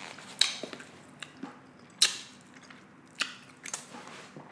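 Close-miked chewing of steak with mushrooms and onions: wet mouth smacks and clicks, four or five of them spaced out with quiet between.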